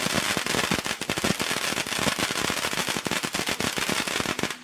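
Fireworks popping in a rapid, dense crackle of many small bangs a second, cutting off suddenly at the end.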